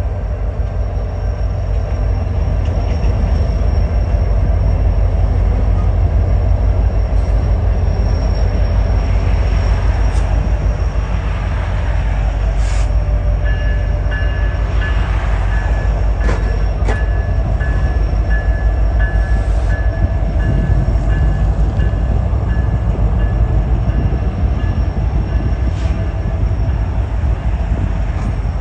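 Diesel-electric freight train passing close by: BNSF locomotives rumbling past, then freight cars rolling over the rails. A thin high-pitched wheel squeal comes in about 13 seconds in and fades out near the end, with a few sharp clicks along the way.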